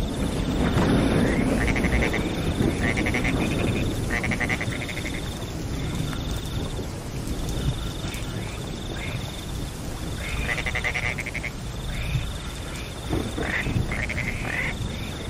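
Steady rain, with frogs calling in short bursts of rapid pulses, several to the second, and a high, thin trill that comes and goes over it.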